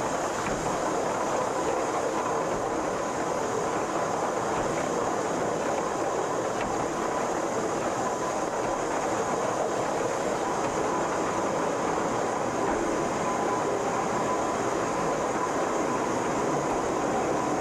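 Pilatus Railway cog railcar running steadily on the rack line: an even rolling rattle and rumble with a faint steady whine.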